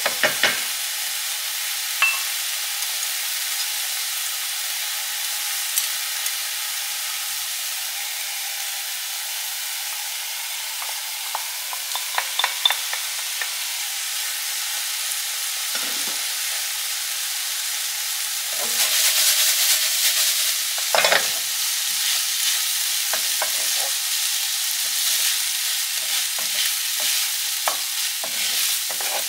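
Chopped kimchi and vegetables sizzling in oil in a hot frying pan, with a wooden spoon stirring and now and then clicking and scraping against the pan. After cooked rice is tipped in, the sizzle swells for about two seconds, and then comes busier stirring with frequent spoon taps and scrapes.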